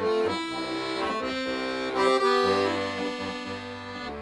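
Accordion playing a melody over sustained chords and low bass notes, with the notes changing about two seconds in.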